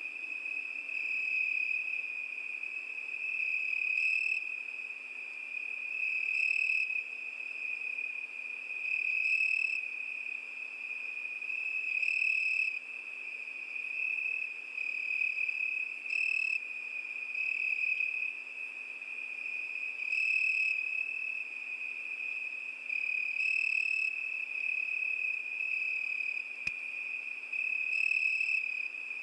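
Crickets chirping in a continuous high-pitched trill that swells louder every three to four seconds.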